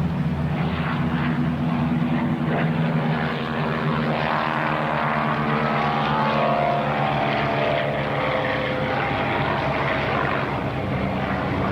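Curtiss P-40 fighter's piston V12 engine running steadily at high power, its propeller drone holding with a slight rise in pitch about midway.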